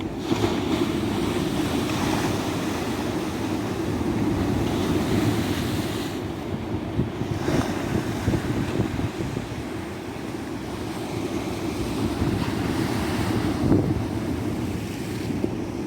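Ocean waves breaking and washing up a beach, a continuous surf with gentle swells, and wind buffeting the microphone.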